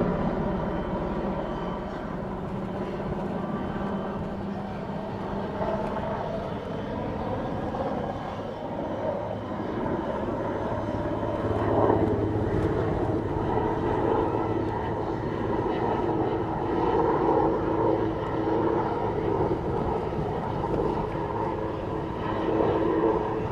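Twin-engine Airbus Helicopters H215 Super Puma flying its display, a continuous helicopter engine and rotor sound with steady tones. It eases off from a louder pass in the first couple of seconds, then holds fairly even with slow swells.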